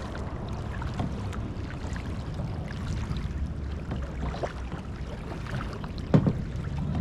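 Kayak paddling: paddle blades dipping and water dripping and splashing, over a low rumble, with one sharp knock about six seconds in.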